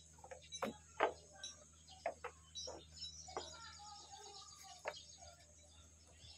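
Birds chirping over a steady high hiss, with several sharp knocks or taps scattered through, the loudest about a second in.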